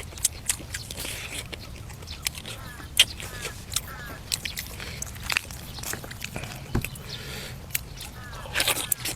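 Close-miked eating: a person biting and chewing braised duck and vegetables, with sharp crunchy clicks scattered throughout.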